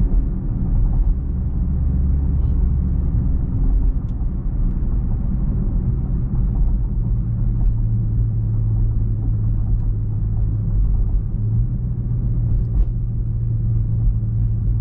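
Car cabin noise while driving: a steady low engine and road rumble, with a low hum that comes in about halfway through.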